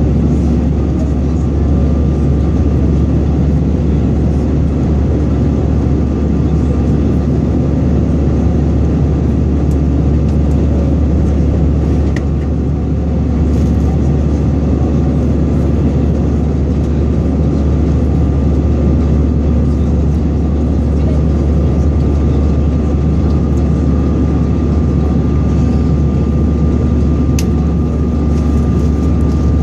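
Steady cabin drone of an Airbus A320-214 in flight: its CFM56 jet engines and the airflow over the fuselage make a loud, even, low roar with a thin steady whine on top.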